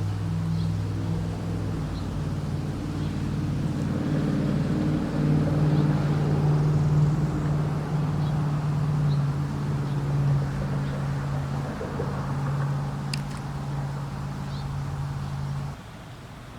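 An engine running steadily with a low hum, its pitch shifting a few times, then cutting off abruptly near the end.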